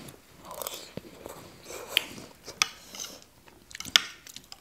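Close-miked eating sounds: chewing a mouthful of spicy noodle salad, with soft wet mouth noise and about four sharp clicks.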